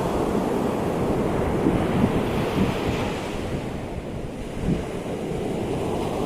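Ocean surf breaking and washing in, with wind rumbling on the microphone; the hiss of a wave swells about three seconds in and dies away.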